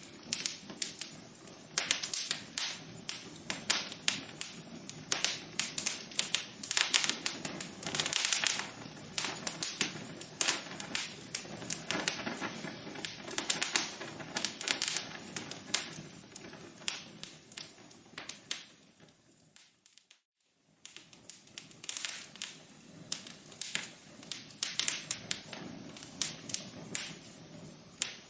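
Wood fire in a fireplace crackling, with dense irregular pops and snaps over a soft hiss. About two-thirds of the way through, the crackling fades almost to nothing for about a second, then comes back.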